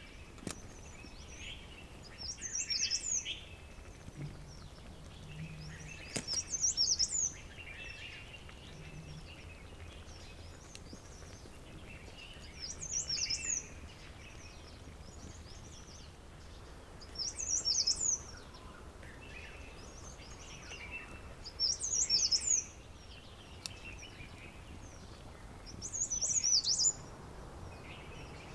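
A songbird singing the same short, high phrase over and over, six times, about every four to five seconds, over faint steady background noise.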